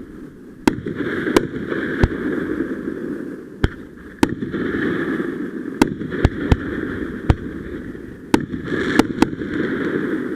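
Fireworks going off: about a dozen sharp bangs at irregular intervals, over a continuous rushing noise that swells and fades.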